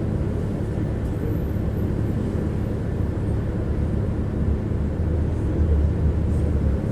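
Tram in motion, heard from inside as a passenger: a steady low rumble of the wheels running on the rails with a low hum.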